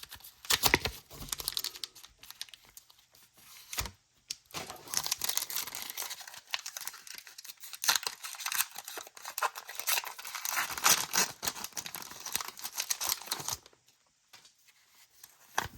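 Foil wrapper of a Pokémon card booster pack being torn open and crinkled. A short burst of rustling comes first, then a long stretch of crinkling that stops about two seconds before the end.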